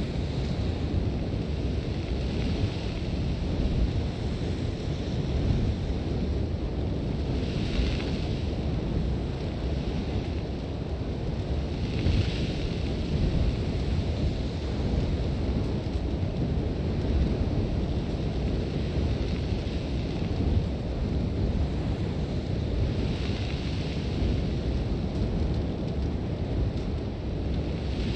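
Sandstorm wind: a steady, heavy low rumble of gusts, with swells of hissing blown sand that come and go several times.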